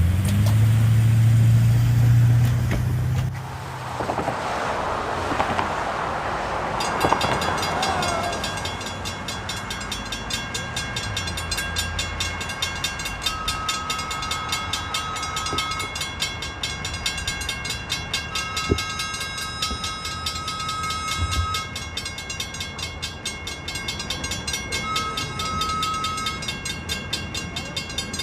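Lake State Railway freight train moving through a grade crossing. A diesel locomotive's low engine drone is loud for the first few seconds. From about seven seconds a crossing bell rings steadily, and a high steady squeal sounds three times.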